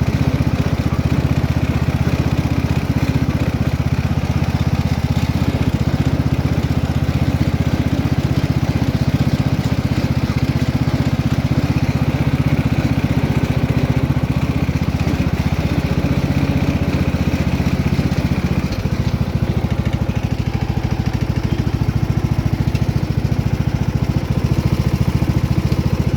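Riding lawn tractor's small single engine running steadily under way. Its note shifts lower and a little quieter about three-quarters of the way through.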